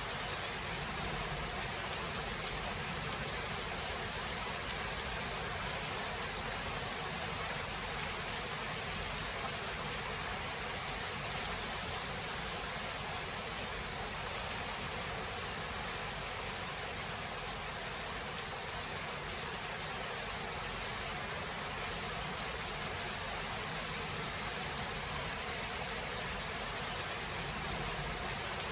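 Steady rain falling, an even hiss with a few slightly louder drop hits.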